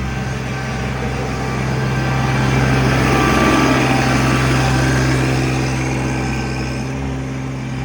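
Tractor engine running steadily while moving snow, growing louder for a few seconds in the middle, then easing back.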